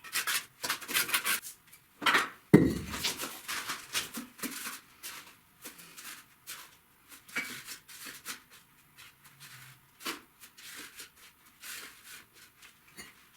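Irregular clinks, taps and short scrapes of hard tools on brick and mortar during bricklaying, with one heavier knock about two and a half seconds in.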